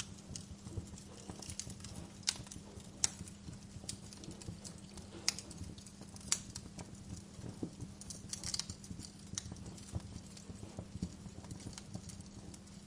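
Wood fire crackling in a fireplace: irregular small pops and snaps over a low steady hiss, with a few sharper pops a couple of seconds apart.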